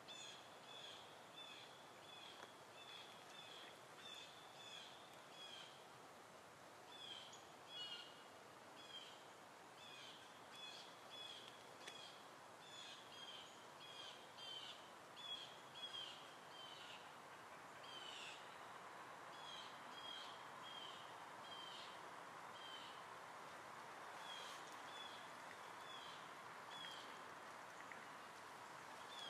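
Faint bird chirping: short, high notes repeated a couple of times a second over a soft steady hiss. A faint steady hum comes up about two-thirds of the way through.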